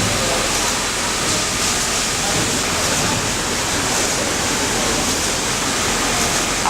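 Steady, even hiss-like machine noise from an automatic pattern sewing machine at work, with no distinct needle strokes standing out.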